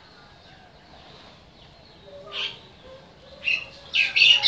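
Birds calling: a short high chirp about two seconds in, then a quicker run of louder, high chirps near the end.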